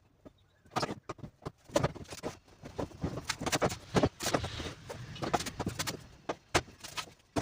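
Irregular knocks, clicks and rattles of a car's front bumper being handled and fitted onto the car, starting about a second in.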